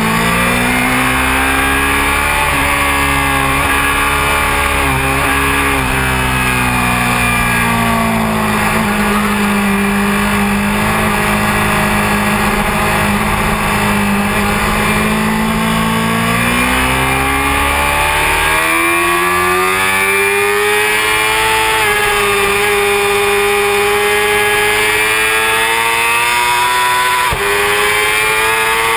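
Honda CBR600F4i inline-four engine running hard on track, its note falling and rising several times with throttle and gear changes. There is a brief sudden break in the note near the end.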